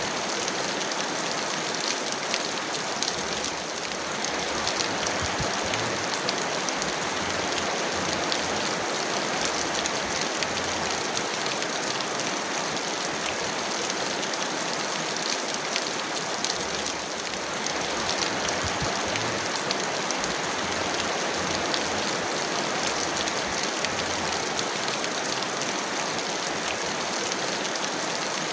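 Heavy, steady rain, a dense hiss of drops with fine pattering ticks throughout.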